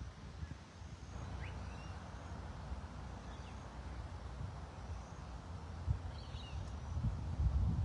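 Outdoor ambience: wind rumbling on the microphone, growing louder near the end, with a few faint, brief bird chirps scattered through.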